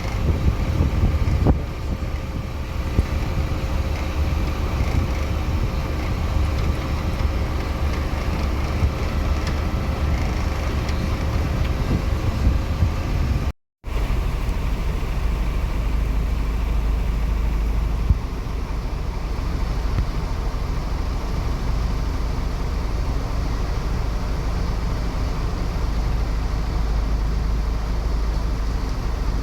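Heavy vehicle engine running steadily with a deep rumble. Near the middle it cuts off for a split second and a similar steady engine rumble carries on.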